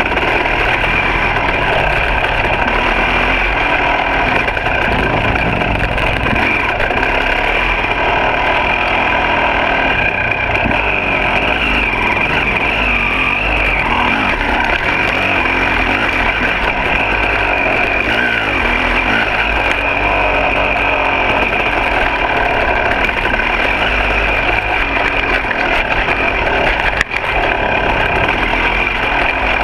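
2006 KTM 300 XC single-cylinder two-stroke dirt bike engine running under changing throttle on a trail ride, its pitch rising and falling as it revs up and eases off.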